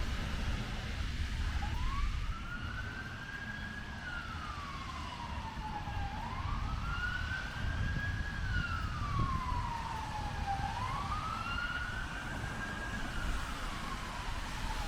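Emergency vehicle siren wailing, its pitch rising and falling slowly, about three full sweeps of four to five seconds each, starting about a second and a half in, over a steady low rumble of traffic and rain.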